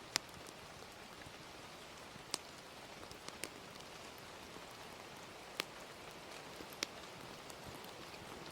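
Gentle rain falling in a steady hiss, with a handful of sharp crackles from a wood fire: one near the start, then more scattered through the rest, including a quick pair near the middle.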